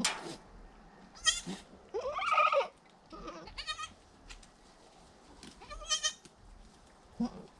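Goats bleating: about four short calls, some thin and high, with the loudest and longest about two seconds in.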